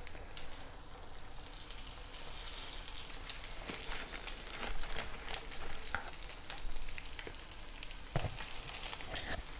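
Breadcrumb-coated chicken breast fillets sizzling in hot oil in a non-stick pan, a steady hiss with scattered crackles and a few sharper pops. A second fillet is laid into the oil partway through.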